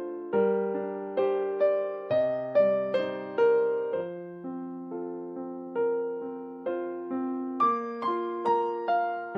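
Background music: a gentle solo piano tune, single notes and chords struck every half second or so and left to ring and fade, slowing a little midway.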